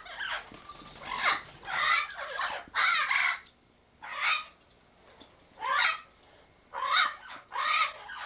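Parrots calling: a string of about eight loud, harsh calls, each rising and falling in pitch, with short pauses between them.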